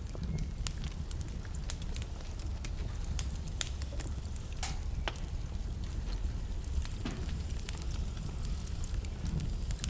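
Wood fire burning in a fireplace: a steady low rumble of flame with irregular crackles and sharp pops from the burning logs, a few louder pops about three to five seconds in.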